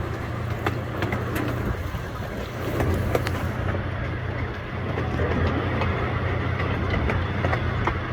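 Excursion train running: a steady low mechanical rumble with scattered sharp clicks and knocks.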